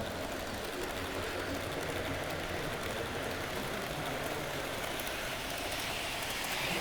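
Model trains running on layout track: a steady rolling rumble of wheels on rail, with faint clicks.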